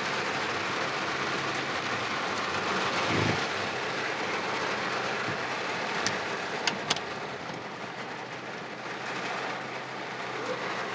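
Heavy rain falling steadily, a constant hiss. A few sharp ticks, like drops striking something hard, come about six to seven seconds in.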